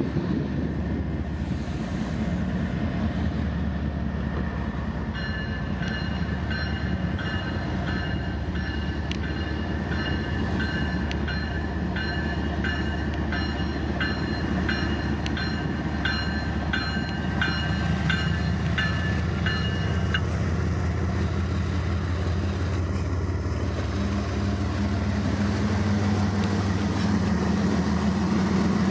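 Diesel freight train running past with a steady low engine and rail rumble that grows slightly louder near the end. For about fifteen seconds in the middle, a bell rings about twice a second over it.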